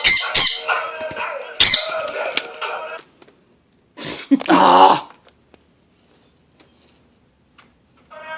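Loud, sharp animal calls, three in the first two seconds, over music with a steady tone; another loud call about four and a half seconds in, then quiet.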